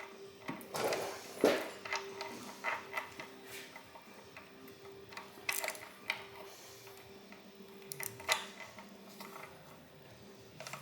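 Hand tools clicking and knocking against a Toyota 22R engine as it is taken apart, with the clicks of a socket ratchet; the sharpest knocks come about a second and a half in, around five and a half seconds and around eight seconds. A faint steady hum runs underneath.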